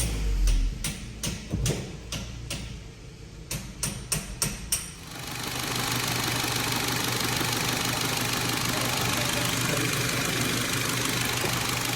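Volkswagen Polo GTI's 1.8 TFSI turbo four-cylinder petrol engine running just after start-up, on a test run after its camshaft oil control valve and adjuster magnet were replaced. Sharp clicks over the engine for the first few seconds, then a steady even running sound from about five seconds in.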